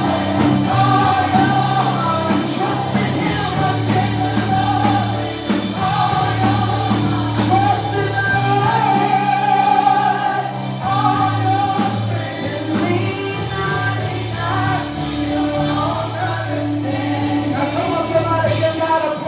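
Live gospel worship music: a band holds sustained low keyboard and bass notes under singing voices.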